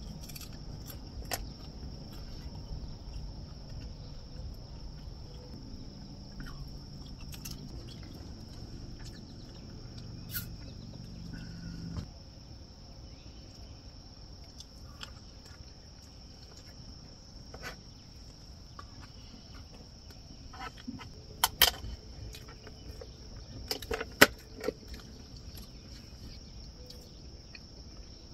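Steady high-pitched chorus of crickets or other insects. A low hum underneath stops suddenly about twelve seconds in. Scattered sharp clicks and knocks come through, bunched about three-quarters of the way through.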